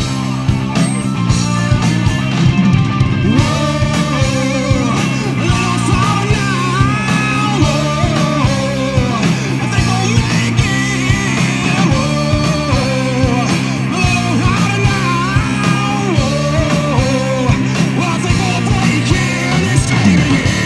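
Rock band playing live: guitar, bass and drums, with a voice singing from about three seconds in.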